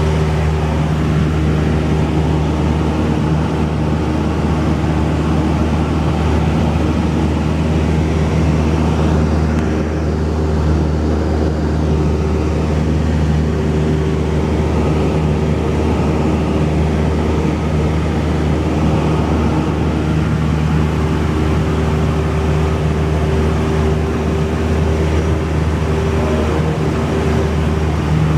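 Cessna 172's piston engine and propeller droning steadily in flight, the pitch holding even.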